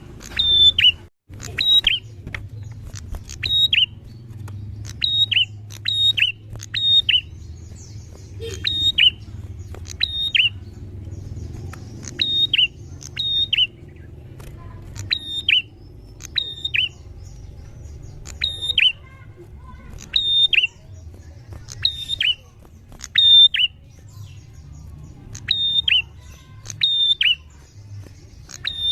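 Prinia (prenjak) calling: loud, sharp notes that drop in pitch, given in twos and threes about every second, over a faint low hum.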